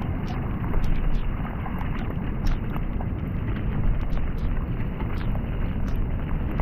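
Heavy wind rumble on the microphone, with scattered sharp clicks and rattles throughout.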